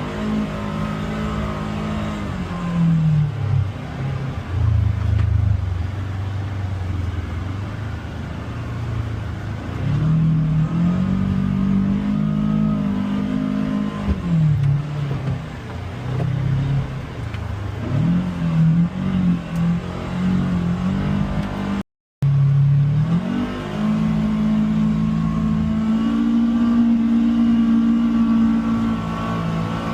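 Polaris Xpedition UTV engine running under load on an off-road trail, its pitch climbing and falling again and again as the throttle is opened and eased off, settling into a steadier, higher drone over the last several seconds.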